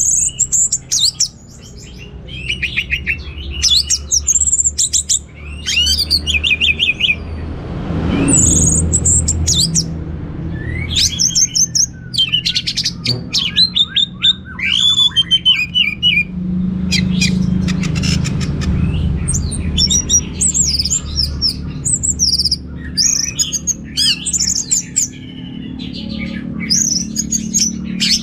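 Orange-headed thrush singing a fast, varied song of high chirps and trills, in phrases broken by short pauses, over a steady low hum. A brief rush of noise comes about eight seconds in.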